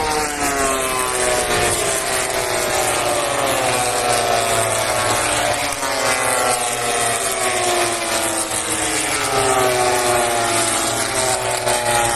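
MotoGP race motorcycles passing in quick succession, their engine notes falling in pitch one after another, several bikes overlapping.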